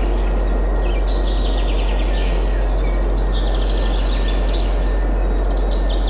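Songbirds singing rapid trilled phrases, one after another, over a steady low rush of wind.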